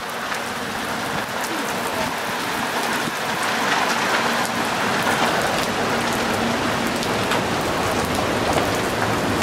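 Heavy hurricane rain pouring down steadily, building slightly over the first few seconds.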